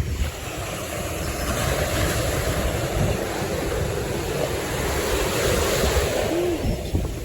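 Ocean surf washing in the shallows: a wave rushes in about a second in and eases off near the end, with wind buffeting the microphone.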